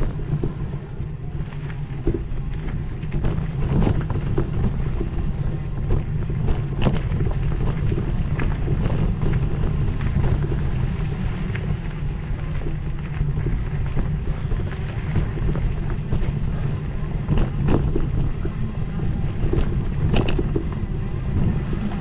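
Wind buffeting the microphone over a steady low rumble of a ride along a dirt trail, with scattered knocks and rattles throughout.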